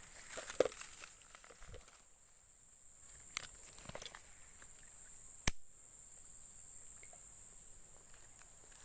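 Steady high-pitched insect buzz, with scattered light clicks and knocks and one sharp click about five and a half seconds in.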